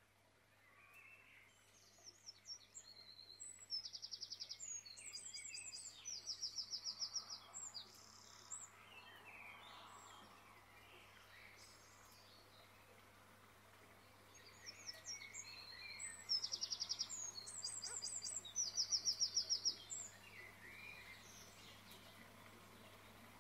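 Bird singing: a phrase of quick high trills and chirps, then the same phrase again about twelve seconds later, over a faint steady low hum.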